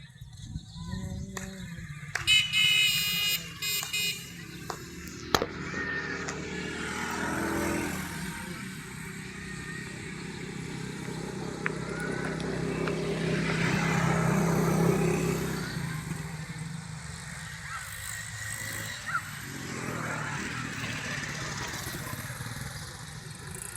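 Motor vehicles running and passing, swelling louder twice. About two to four seconds in there is a short, loud pitched sound.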